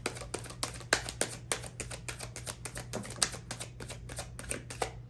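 Tarot cards being shuffled by hand: a quick run of sharp clicks and slaps at about five a second that stops just before the end, over a steady low hum.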